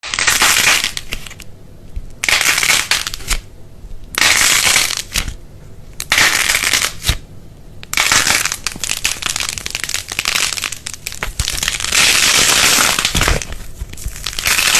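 Repeated crunching, crushing strokes, each about a second long with short pauses between, then a longer unbroken stretch of crunching near the end.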